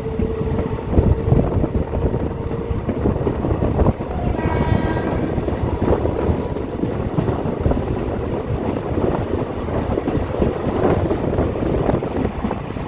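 Train running along the track, its wheels and carriages rattling and clattering steadily, with a brief horn blast about four seconds in.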